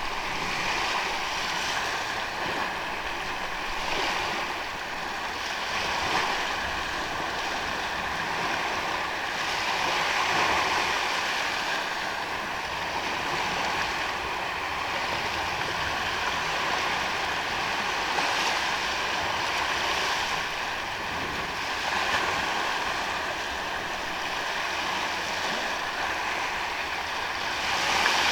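Ocean waves washing onto a sandy beach: a continuous wash of surf that swells every few seconds as each wave breaks and runs up the sand.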